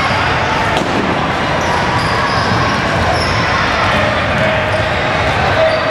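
Basketball game in a gym: a ball bouncing on the hardwood court over a steady din of players and spectators.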